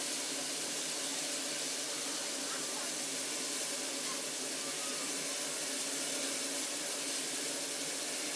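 Steady, even hiss of a steam locomotive standing at the station, with a faint murmur of voices beneath it.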